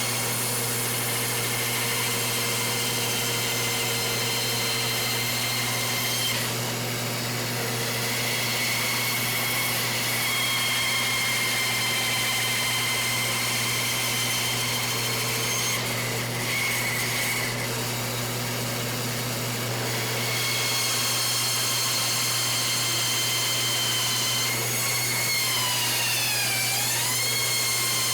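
Benchtop sander running steadily while sanding a wooden plane body flush to its steel sole, a constant motor hum under a high whine that dips in pitch and recovers near the end.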